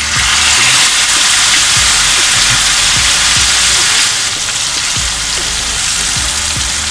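Marinated beef sizzling loudly in hot coconut oil in a wok. The sizzle starts abruptly as the meat goes into the oil and eases slightly about four seconds in.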